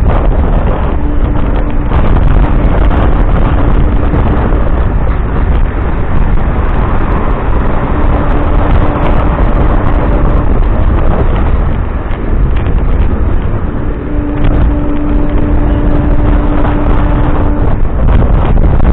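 MEMU electric train in motion: a loud, steady rumble of wheels on the rails, with wind buffeting the microphone. A faint steady hum comes and goes through it.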